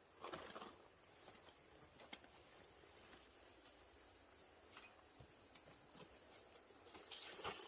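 Faint, steady high-pitched insect chirring, like crickets, with a few soft rustles or steps shortly after the start and again near the end.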